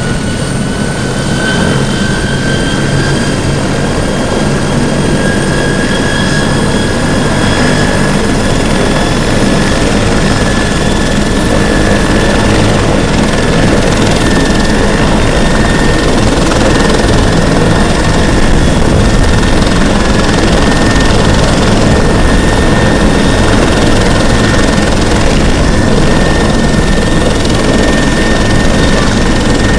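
Bell 412EP twin-turbine helicopter running close by: a high turbine whine rises in pitch over the first ten seconds or so and then holds steady, over the low beat of the rotor, growing slightly louder.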